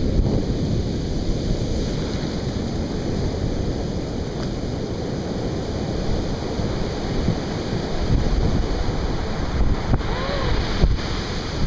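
Ocean surf breaking and washing steadily, rough with hurricane swell, with wind buffeting the microphone.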